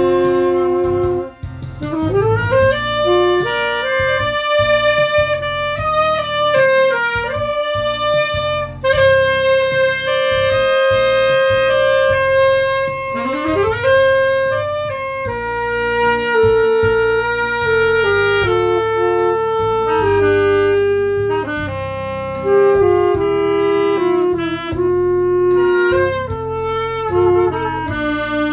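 A saxophone playing a slow, sung-style melody over a recorded accompaniment. It has long held notes and two slides up into notes, one about two seconds in and one near the middle.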